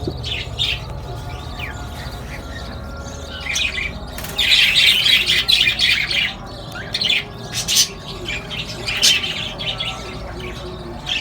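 Aviary full of breeding parrots chirping and squawking, the calls thickest from about four to six seconds in and again near nine seconds, over a low steady hum.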